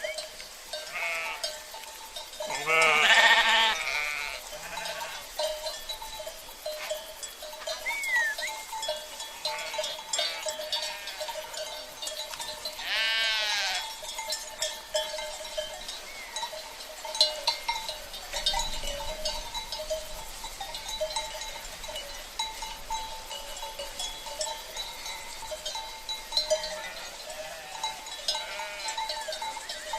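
Sheep bleating, loudest about 3 s in and again about 13 s in, over the steady clinking and ringing of livestock bells (cencerros).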